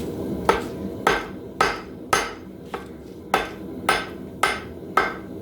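Hand hammer striking hot steel on an anvil while forging a hammer head: nine metallic blows at about two a second, each ringing briefly, one of them lighter.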